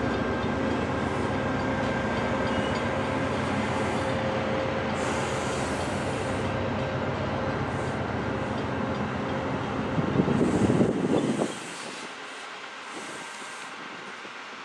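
Shore Line East commuter train pulling out and rolling past, a steady rumble of wheels and running gear with a few steady tones above it. About ten seconds in it swells louder, then drops suddenly to a fainter rumble as the train moves away.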